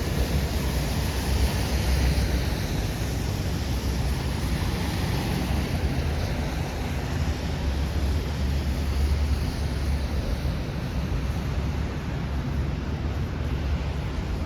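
Steady city street ambience: a constant low rumble under an even hiss, with no single event standing out.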